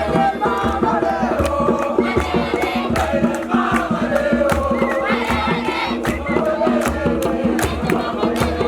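A crowd of young voices chanting and singing together, with sharp rhythmic percussive hits throughout and a steady drone underneath.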